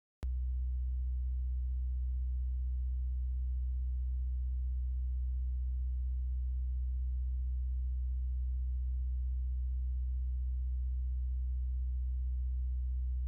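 A steady, unchanging low electronic hum that starts abruptly just after a moment of dead silence.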